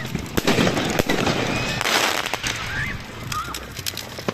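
Fireworks going off: a quick series of sharp bangs and crackles, with a hissing burst about two seconds in.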